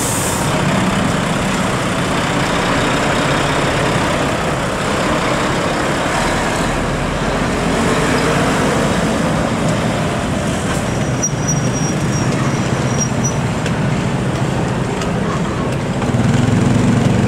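Heavy truck's diesel engine running with road traffic noise, growing louder about sixteen seconds in; a brief hiss at the very start.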